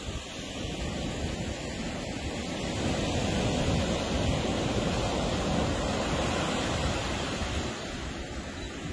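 Ocean surf washing on a beach, a steady rush of breaking waves that swells louder about three seconds in and eases off near the end.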